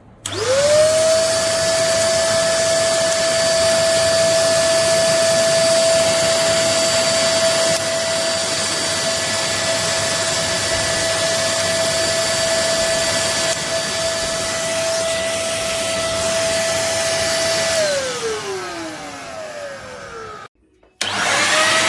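Russell Hobbs RHSV1001 corded stick vacuum switched on, its motor spinning up within a second to a steady high whine. Near the end it is switched off and the whine falls away, then it is switched on and spins up again after a brief silence.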